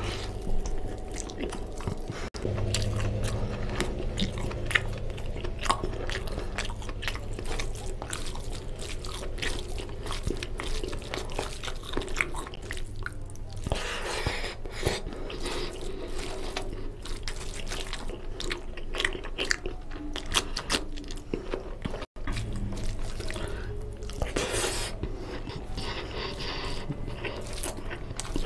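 Close-miked chewing of mutton curry and rice, eaten by hand: wet, smacking mouth sounds with many small clicks, over a steady low hum.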